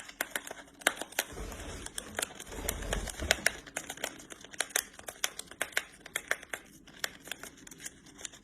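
A pet parrot tearing open a tea packet with its beak: crinkling paper with many quick sharp clicks and rips, and a low rumble for a couple of seconds near the start.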